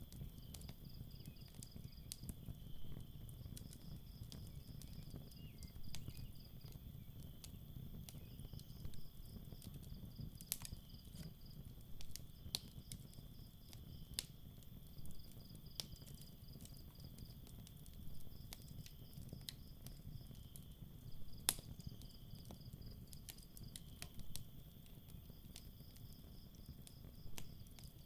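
Crickets chirping in repeated pulsed trains over the low rumble of a campfire, with the fire's wood popping in scattered sharp crackles, one louder pop about two-thirds of the way through.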